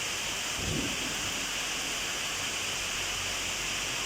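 Heavy tropical downpour falling steadily, a dense even hiss of rain. A brief low rumble sounds about half a second in.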